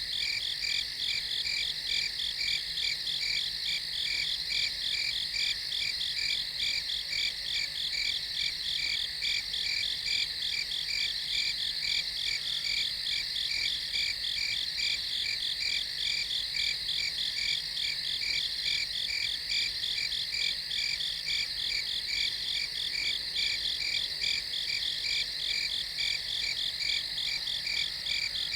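Night chorus of crickets chirping, a steady fast pulsing trill that never stops or changes.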